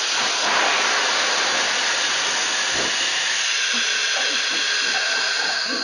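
ABS avalanche airbag backpack deploying: the gas cartridge releases and a loud, steady hiss fills the airbags, easing off slightly near the end.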